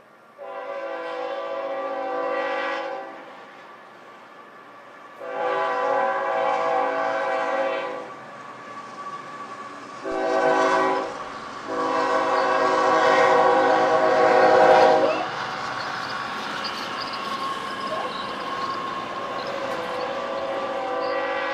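Locomotive air horn sounding the long, long, short, long grade-crossing signal, followed by the train's steady rumble as it passes.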